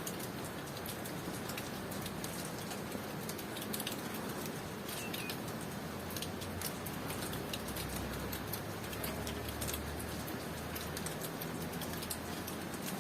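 Steady tropical rain with sharp drips and patter, and a brief faint bird chirp about five seconds in.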